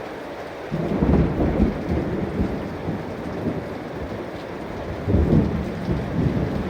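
Thunder rumbling over a heavy downpour: the rain hisses steadily, then a loud low peal breaks in suddenly under a second in and rolls on, swelling again around five seconds.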